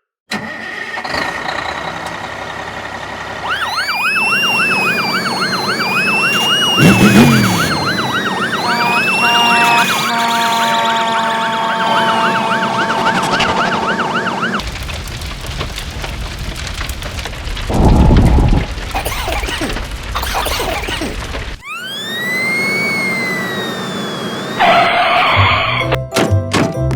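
Fire engine siren sounding, a repeated rising-and-falling wail layered with a fast yelp for about ten seconds, over background music. It gives way to several seconds of steady rushing noise, and then a single wail rises again near the end.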